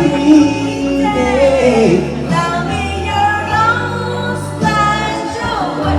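A singer holding long sung phrases over a live band, with bass notes that change every second or two.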